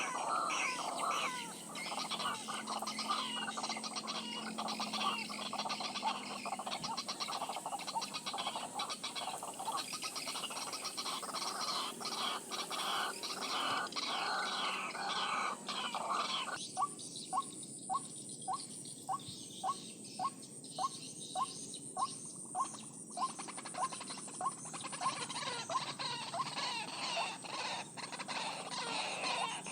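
White-breasted waterhens calling with dense, repeated croaking notes. About halfway through comes a regular run of about a dozen sharp calls, roughly two a second.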